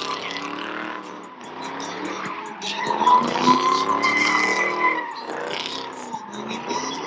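Car sliding in circles at a car meet: tyres squealing with a steady high screech that swells a few seconds in, while the engine revs up and down.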